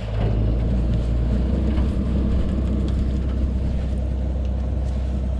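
An engine running steadily, a low, even drone, with a few faint clicks over it.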